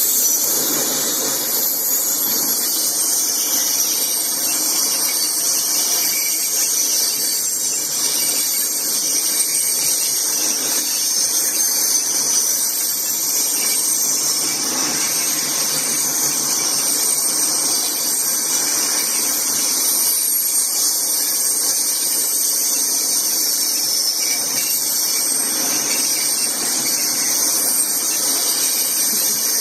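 Freight train rolling past, its steel wheels on the rails giving a steady high-pitched hiss with a faint squeal.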